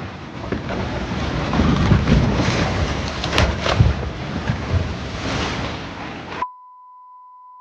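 Rockfall: a large mass of rock crashing down a slope in a heavy rumble, with a few sharp cracks of rock striking rock. The rumble cuts off suddenly about six seconds in, and a steady high beep follows.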